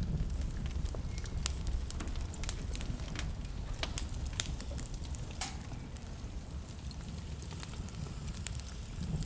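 Wood fire crackling: irregular sharp pops and snaps over a steady low rumble of flames, with one louder pop about five and a half seconds in.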